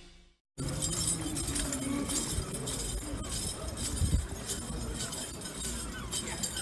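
Irregular light metallic clinking and tapping, with many small sharp clicks, starting about half a second in.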